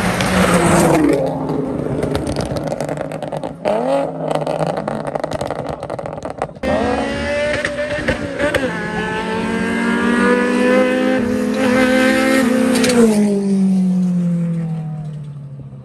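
Two cars racing side by side from a standing start, a turbocharged BMW 335i and an Infiniti Fuga. The engines rev up again and again, dropping in pitch at each of several gear changes, then the sound falls away near the end.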